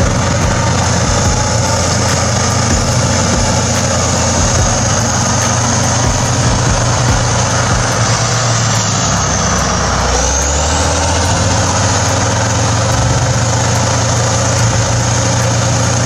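A bulldozer's heavy diesel engine running steadily, its low note changing about ten seconds in.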